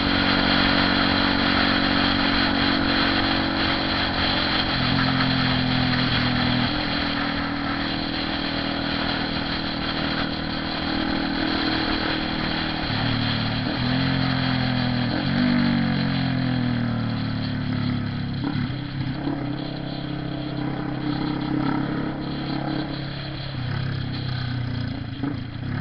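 Honda CB 300R motorcycle's single-cylinder engine running under way, its pitch changing in steps several times as the revs rise and fall.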